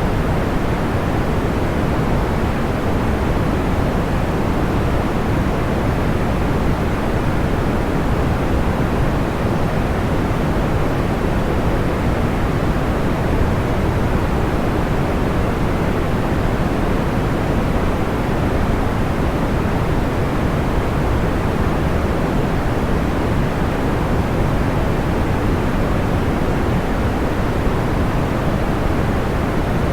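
Steady synthetic sleep noise, a constant hiss that is heavy in the lows and rolls off in the highs, like pink noise.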